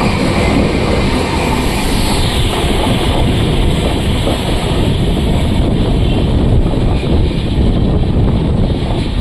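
Amarnath Express passenger train running, a loud steady rumble of the moving train, with wind buffeting the microphone.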